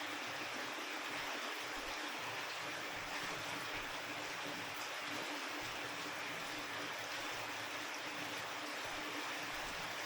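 Steady rain falling: an even, unbroken hiss with a faint steady hum underneath.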